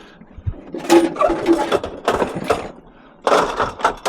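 Irregular knocks and clatter, a few sharp hits spread over the seconds, with a brief ringing tone about a second in.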